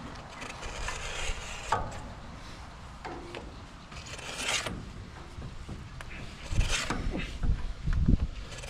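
Scraping and rubbing of metal with a few sharp clicks, from a manual lever grease gun being worked on the woodchipper's grease fittings, with louder clunks near the end.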